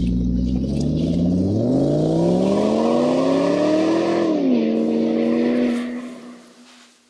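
A motor running, its pitch rising steeply for a couple of seconds, then dropping back, holding steady and fading out near the end.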